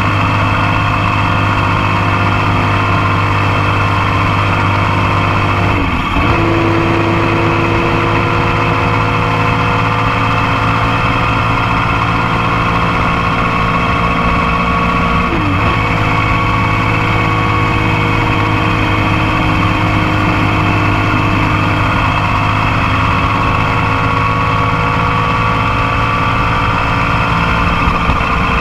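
Motorcycle engine running under way at a steady cruise, heard close up from a foot-peg-mounted microphone. The engine note drifts slowly in pitch and breaks briefly twice, about six and fifteen seconds in.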